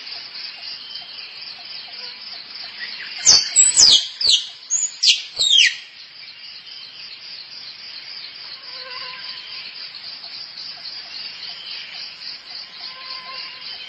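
Squirrel calling: a quick run of about six sharp, squeaky calls, each falling steeply in pitch, a few seconds in. A steady, rapidly pulsing insect chorus continues underneath throughout.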